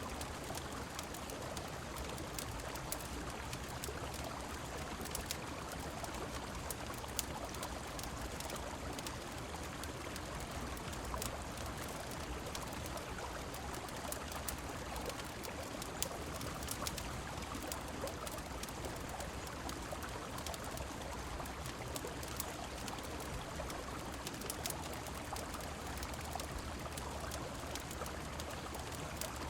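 Steady rushing of river water and falling rain, with small sharp fireplace crackles scattered through.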